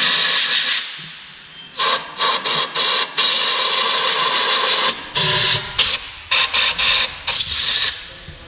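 Aerosol spray can sprayed in a series of hissing bursts, a long spray near the start and another in the middle, with many short spurts between and after.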